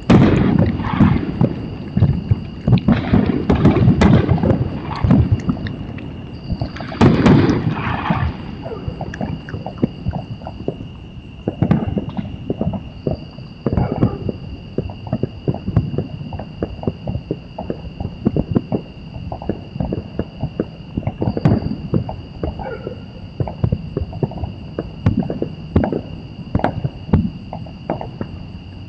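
Fireworks going off: a dense run of bangs and crackling with low rumble for about the first eight seconds, then scattered pops and cracks for the rest.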